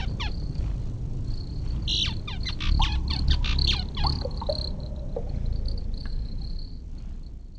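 Birds calling in quick, repeated downward-sweeping chirps, with a thin steady high whine above a low rumble; the sound fades out near the end.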